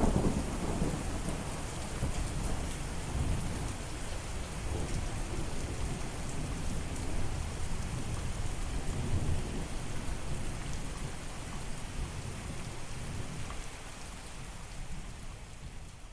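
Steady rain hissing, with a low rumble of thunder that dies away over the first few seconds. The whole sound fades out near the end.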